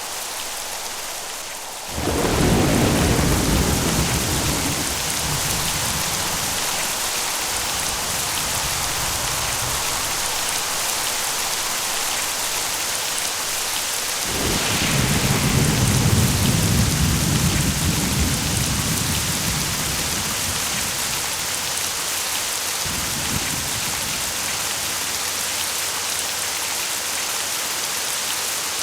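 Steady heavy rain hissing, with thunder: a sudden deep rumble about two seconds in that rolls away over several seconds, a second, louder rumble in the middle, and a smaller one near the end.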